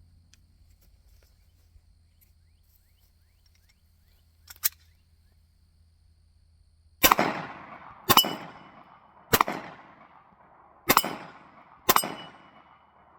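Five gunshots fired at a Texas Star steel target, starting about halfway through and spaced roughly a second apart, each with a decaying echo. A thin metallic ring follows two of the shots, a steel plate being struck.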